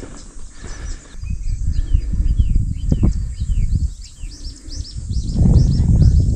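Small bird calling a series of quick chirps: one lower run in the first half and a higher, faster run near the end. Under it runs a loud low rumble that swells near the end.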